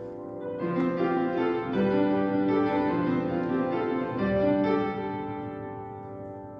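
Intro music: solo piano playing a slow sequence of sustained notes and chords, fading out near the end.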